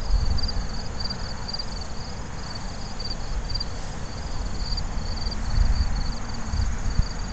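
Crickets chirping in a steady high pulse about twice a second, over the buzz of honey bees flying at a hive entrance and a low rumble.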